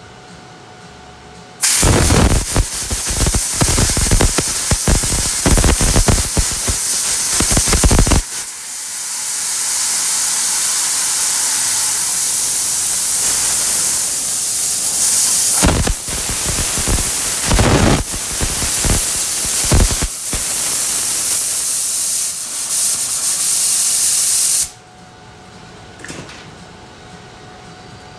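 Welder arc crackling for about six seconds as a bead is run on thin sheet-metal panel, followed by a long steady hiss as the hot weld is cooled, broken by three short crackling welding bursts. The hiss stops suddenly a few seconds before the end.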